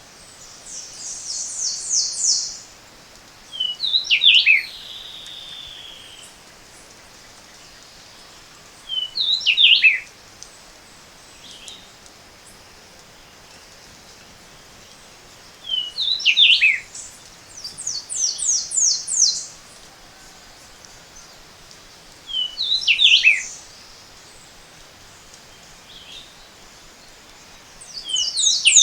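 Wild birds singing: one repeats a short phrase of a few falling whistled notes about every six to seven seconds, and another gives a higher, rapid series of sharp notes three times, over a faint steady background hiss.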